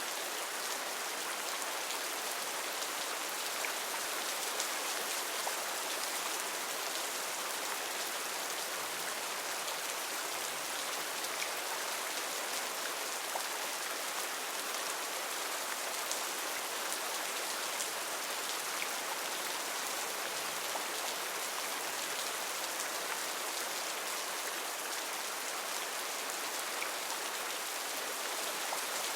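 Heavy rain falling steadily in a rainforest, a dense even hiss of drops with scattered individual drop ticks.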